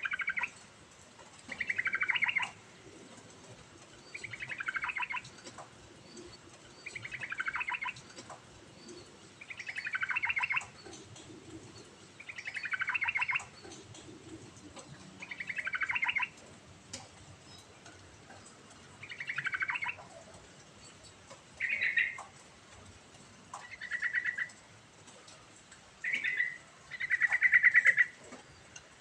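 Yellow-vented bulbul singing: a bubbly phrase of rapid notes, about a second long, repeated every two to three seconds.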